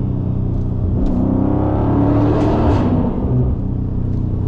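Dodge Scat Pack's 6.4-litre HEMI V8 with its mid-muffler deleted, running steadily at highway speed, heard from inside the cabin. It swells louder and harsher for about a second near the middle, then settles back to a steady drone.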